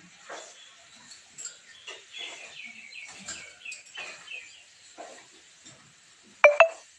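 Pet parrot chattering in a quick run of short, high chirping calls, followed near the end by two sudden, loud, sharp sounds.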